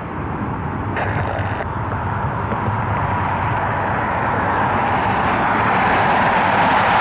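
Jet airliner approaching, its engine noise a rushing sound with a whine that swells steadily louder.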